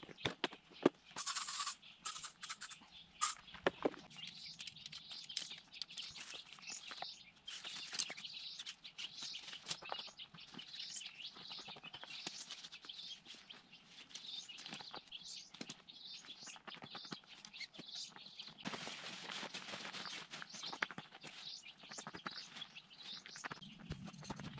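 Faint birds chirping on and off, with a few sharp knocks in the first few seconds.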